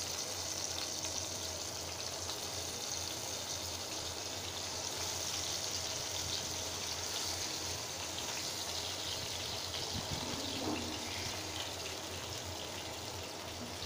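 Ash gourd slices sizzling steadily as they shallow-fry in hot oil in a frying pan.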